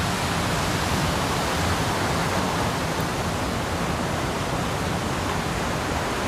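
Steady rush of water, an even hiss with no breaks.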